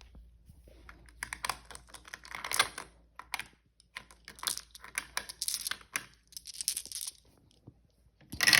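Marbles clicking and rattling in quick irregular bursts of small hard knocks, with short pauses between them.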